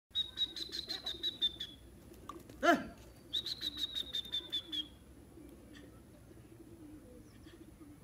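Bird calls: two fast trills of rapid high notes, each about a second and a half long, with one short call sliding steeply down in pitch between them.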